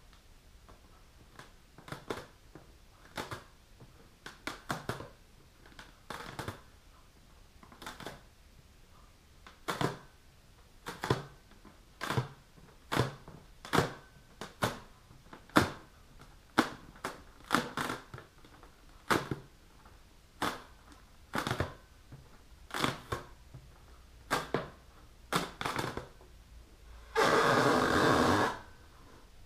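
Long fingernails scratching and tapping on an inflated rubber balloon in short, separate strokes about once a second, then a louder, longer rub lasting about a second and a half near the end.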